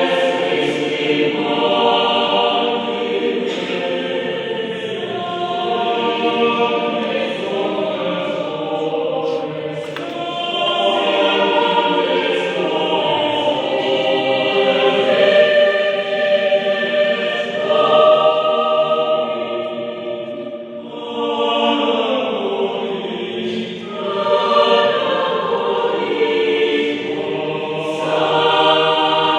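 Adult mixed choir of men's and women's voices singing sustained phrases in harmony, with brief breaks between phrases about two-thirds of the way through.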